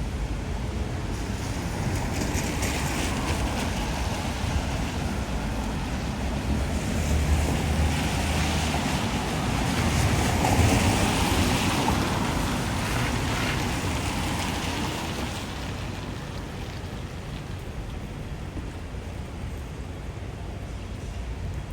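Typhoon wind blowing in gusts, swelling to a peak about ten seconds in and then easing off, with the wind buffeting the microphone.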